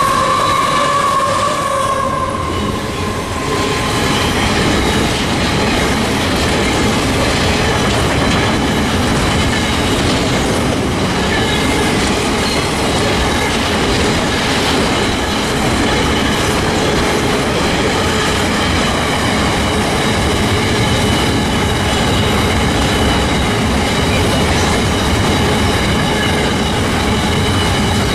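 A long freight train of container wagons rolling past close by: steady wheel-on-rail rumble with clickety-clack over the rail joints and thin, steady squealing from the wheels. In the first few seconds the tone of the trailing diesel locomotives fades away as they pass.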